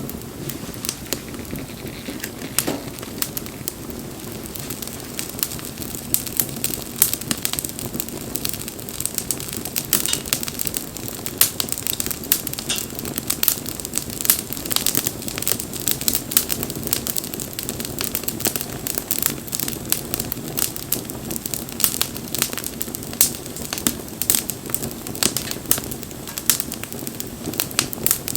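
Wood bonfire crackling, with frequent sharp pops and snaps over a steady low rushing noise; the popping grows busier about a third of the way in.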